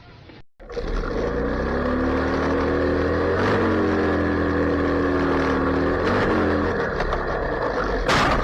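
A motor vehicle's engine running steadily under load, its pitch dipping briefly and recovering twice. A sudden loud noise comes near the end.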